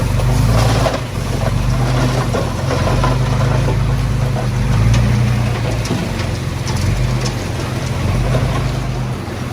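Komatsu D20P bulldozer's diesel engine running steadily, with scattered clanks and scrapes, a cluster of them about a second in and more near the middle.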